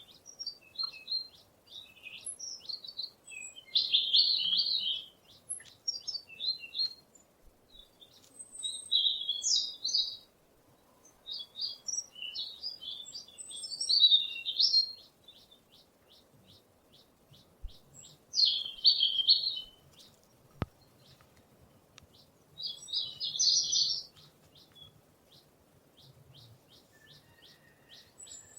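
Small songbirds chirping and calling in short bursts every few seconds, with faint, evenly repeated ticking notes in between.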